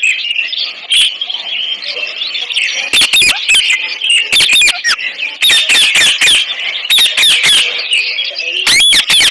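Ringneck parrots screeching: a run of sharp, shrill calls about two a second, starting about three seconds in, over a steady high chatter of bird calls.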